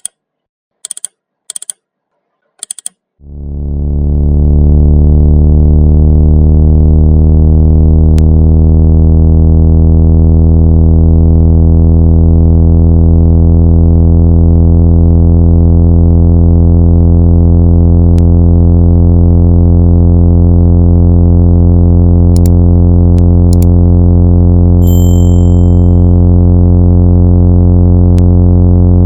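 Synthesized low buzzing tone with many overtones, steady and very loud, played through a phone speaker to shake water out of it. Three short blips come first, then the tone swells in over about a second and holds.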